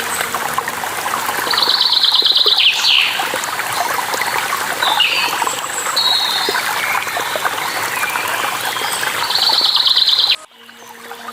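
Steady rush of falling water with songbirds calling over it: a fast buzzy trill about two seconds in and again near the end, with short chirps and whistles between. Near the end the sound cuts out abruptly, then fades back in.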